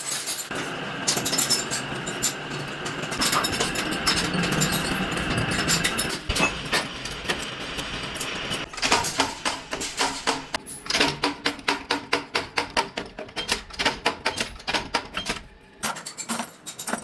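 Metalworking machinery running in a pin factory, with a steady whine for the first half. A rapid, irregular run of sharp metallic clicks and clinks follows, as small metal pins are worked and handled.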